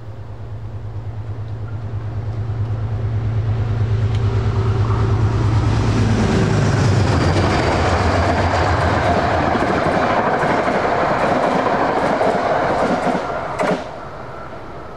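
A train passing close by: a low hum grows louder and drops in pitch as the head end goes past, then wheels rumble and clatter on the rails, with a sharp bang just before the train clears.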